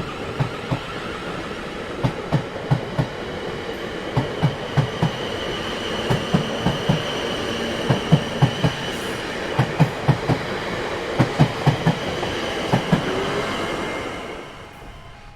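Train wheels rolling over rail joints: a steady rumble with a clickety-clack of knocks in clusters of two to four, under a faint steady whine. It fades and drops away near the end.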